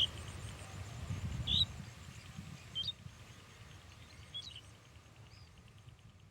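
Birds chirping: a handful of short, high single chirps a second or so apart, over a low rumble that fades toward the end.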